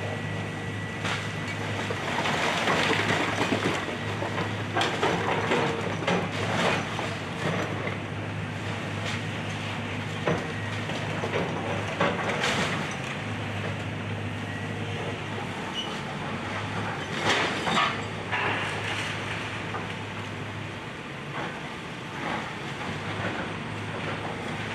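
Excavator's diesel engine running steadily, with irregular knocks, cracks and scraping as the machine breaks up and moves house debris; the loudest clusters of impacts come about 2 to 4 seconds in, near the middle, and about two-thirds of the way through.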